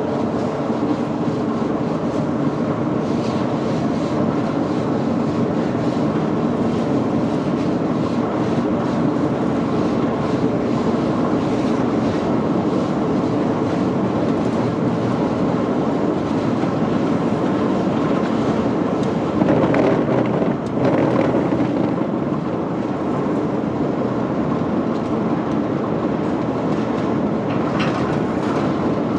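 Heavy factory machinery running steadily, with a louder surge about twenty seconds in.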